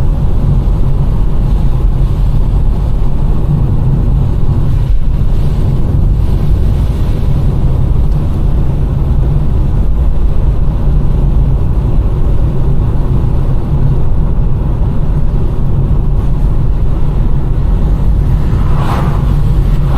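Car driving on a wet road: a steady low rumble of engine and tyre noise, with a short higher swish near the end.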